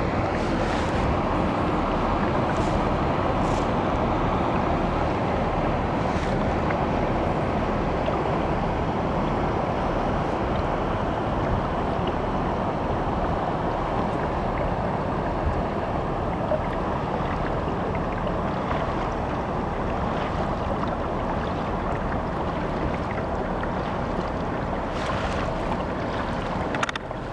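Steady wind buffeting the microphone over water rushing past a motorised kayak moving along a river, with a few faint brief splashes.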